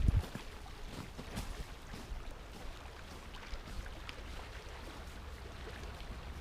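Lakeshore ambience: small waves lapping at the shore with a low rush of light wind, and scattered faint ticks and splashes.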